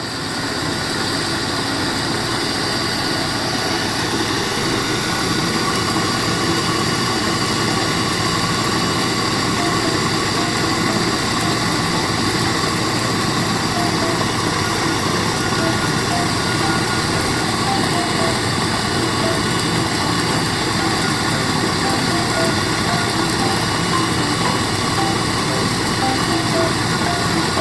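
Household rice polishing machine running with a steady, unbroken motor drone.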